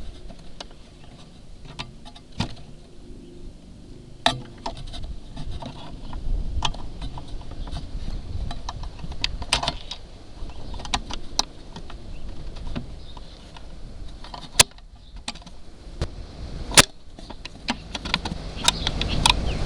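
Irregular light clicks and rustling over a low rumble, with two sharper clicks in the second half about two seconds apart.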